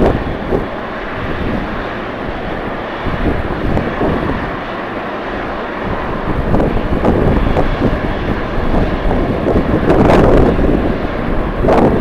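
Jet airliner engines running, with strong wind buffeting the microphone; the engine noise grows louder about ten seconds in.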